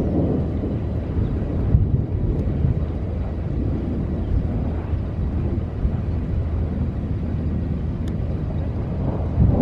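Thunder from a supercell thunderstorm, a continuous low rumble that swells about two seconds in and again near the end.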